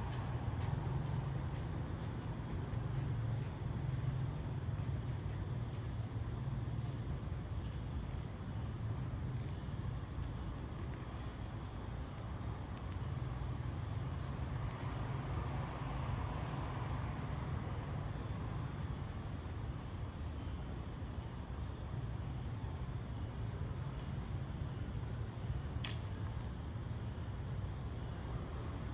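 Crickets trilling steadily in one unbroken high pulsing tone, over a low steady rumble of distant background noise. There is a single sharp click near the end.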